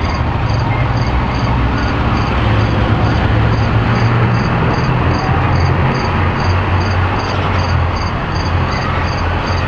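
Crickets chirping in an even rhythm, about three or four chirps a second, over a steady low hum and a broad rushing noise.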